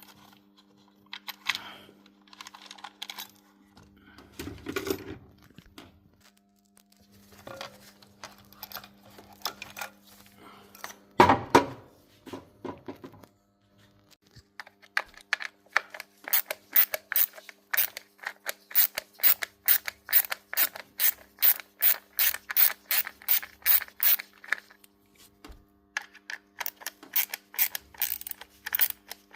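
Mechanical clicking and rubbing, with a loud knock about eleven seconds in, then a long even run of sharp clicks, about three or four a second, over a faint steady hum.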